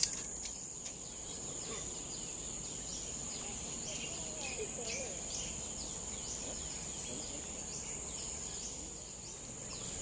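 Tropical forest ambience: a steady, high-pitched insect drone with many short, falling bird chirps repeating over it. A sharp click comes right at the start.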